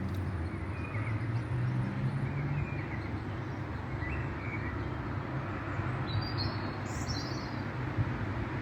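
Outdoor ambience by a lake: a steady low rumble with a few short, faint bird chirps, some higher-pitched ones near the end.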